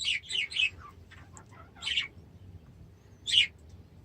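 Budgerigar chirping: a quick run of short, high chirps at the start, then single chirps about two seconds in and again near the end.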